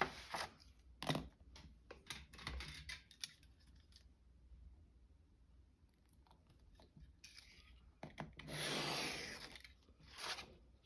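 Paper being handled and cut: scattered light clicks and taps, then a single rasping cut lasting about a second, a little before the end.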